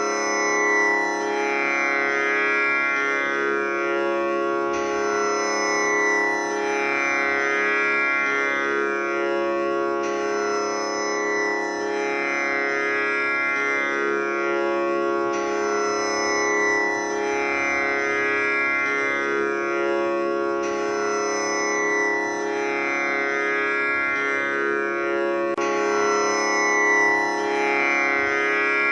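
Tanpura tuned to C# sounding its steady drone, its strings plucked in a cycle that repeats about every five seconds, with rich, shimmering overtones.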